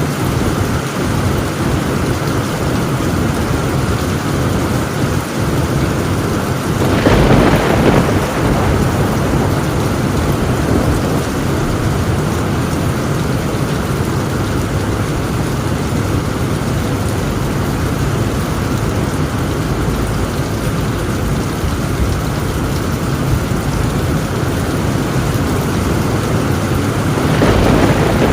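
Torrential rain falling on a tin roof in a steady downpour, with thunder swelling up about seven seconds in and again near the end.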